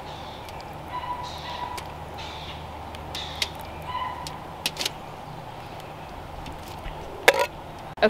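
A bird calls twice, short pitched calls about a second in and again about four seconds in, over a steady low background hum. A few light clicks and taps come in between, the sharpest one near the end.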